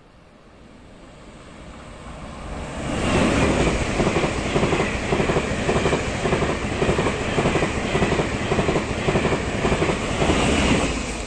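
Taiwan Railway train passing at high speed: it builds up over the first few seconds, then its wheels clatter over the rail joints in a fast, even rhythm for about eight seconds before easing off near the end.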